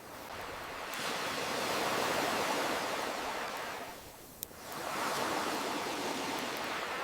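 Ocean waves washing in, the surf swelling and fading in slow surges, with a single sharp crackle from a wood fire about four and a half seconds in.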